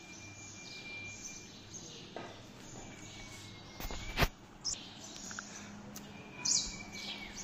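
Small birds chirping in short high calls, with a single sharp click about four seconds in.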